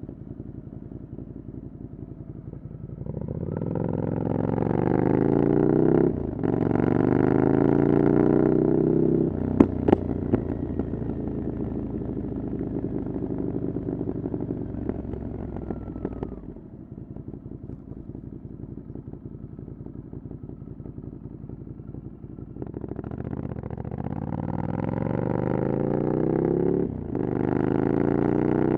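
Ducati Scrambler Desert Sled's air-cooled L-twin through a LeoVince exhaust with the dB killer removed. The bike accelerates through the gears with rising pitch and short breaks at the shifts, then rolls off to a low, steady idle for several seconds before pulling away hard again. A few sharp clicks come about ten seconds in.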